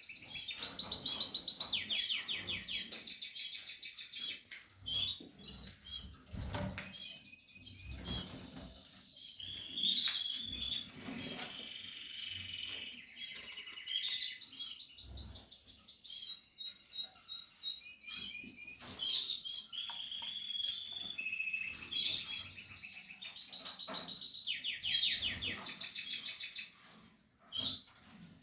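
Canary singing a long, varied song of fast trills and rapidly repeated notes, broken by short pauses, with a few short knocks and wing flutters in between.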